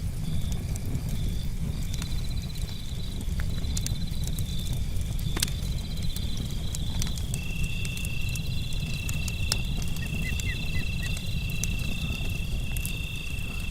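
Campfire crackling with scattered sharp pops over a steady low rumble, while crickets trill and chirp continuously; a second, lower steady trill joins about seven seconds in.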